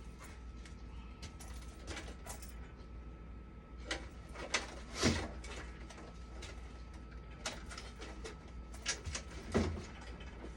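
Scattered clicks and knocks of parts and tools being handled during repair work on a dialysis machine, with two louder knocks about five seconds and nine and a half seconds in, over a steady low hum and a faint steady high tone.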